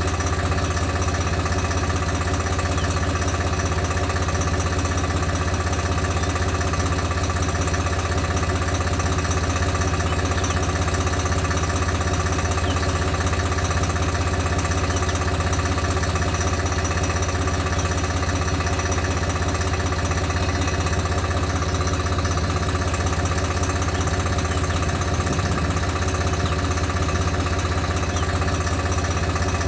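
A small motor running steadily with a constant low hum and many steady overtones, its speed unchanging throughout.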